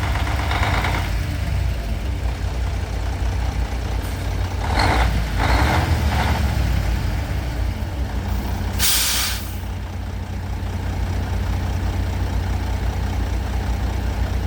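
Sterling day cab truck's 350 hp Mercedes-Benz diesel idling steadily, with three brief louder sounds about five to six seconds in. About nine seconds in, a short sharp hiss of air is let out of the air brake system.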